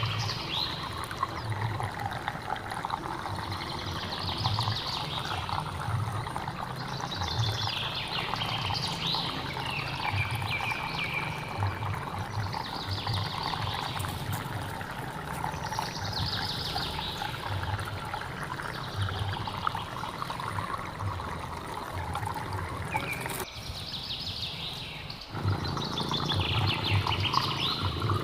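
Flowing stream water running steadily, with a bird singing a short high phrase every two to three seconds over it. The lower part of the water sound cuts out briefly a little before the end.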